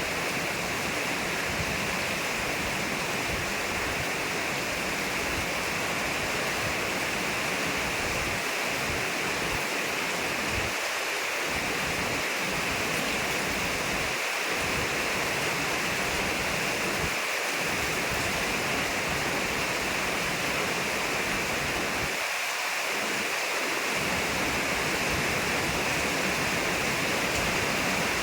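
Heavy rain falling steadily, an even hiss, with wind rumbling low that drops away briefly now and then.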